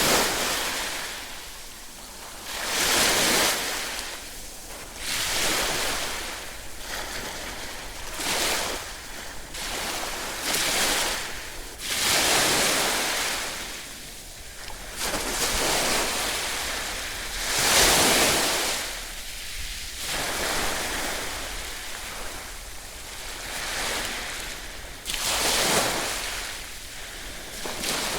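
Ocean surf: waves breaking and washing in one after another, each surge swelling and fading over two to three seconds, with the loudest break about two thirds of the way through.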